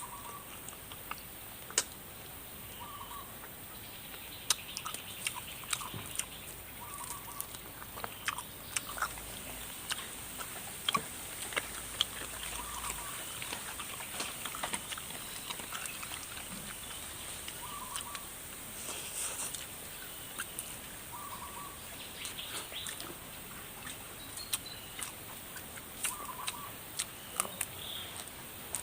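Close-up eating of spicy chicken feet: irregular crunching, sucking and clicking as the bones and skin are chewed. A bird calls in short, repeated notes every few seconds over a steady high hiss.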